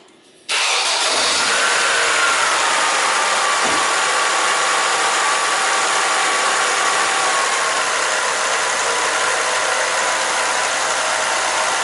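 Ford Focus engine starting abruptly about half a second in and then idling steadily, with a faint tone in it falling slowly in pitch over the next several seconds. The engine is run so the water pump circulates fresh coolant through the cooling system.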